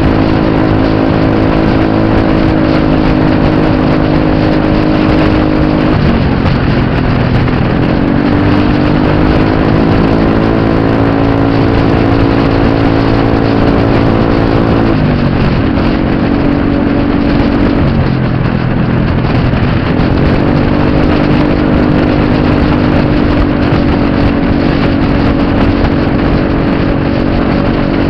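Motor scooter engine running hard at a steady pitch, over a rushing noise. The note drops sharply about six seconds in and again around fifteen and eighteen seconds as the throttle eases, then climbs back up as it picks up speed again.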